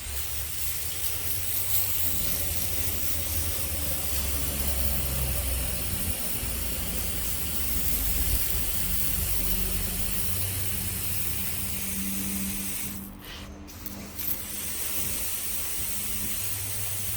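Sawmill running and cutting: a steady hiss over a low engine hum, dipping briefly about thirteen seconds in.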